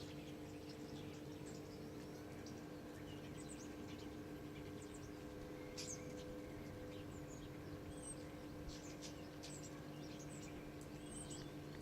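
Faint outdoor ambience: birds chirping in short scattered calls over a steady low electrical-sounding hum.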